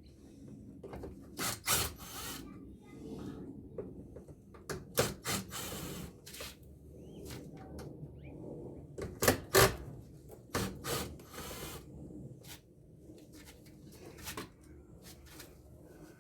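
Hand tools and parts being worked while stripping an air-conditioner blower: irregular clicks and knocks with scraping and rubbing as screws are undone, with a cluster of sharp knocks about nine to ten seconds in.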